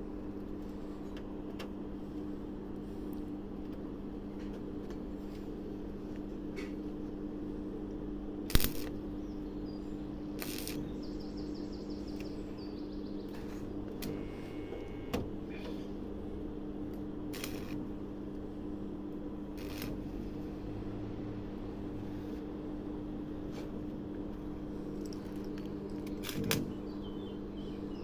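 Steady electrical hum, with scattered short metallic clinks and knocks in a car-body workshop. The loudest knock comes about eight and a half seconds in.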